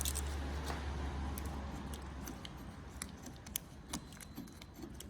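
Scattered small metal clicks and taps as a Phillips screwdriver works the motorcycle's handlebar bar-end counterweight loose, over a low hum that fades out about two seconds in.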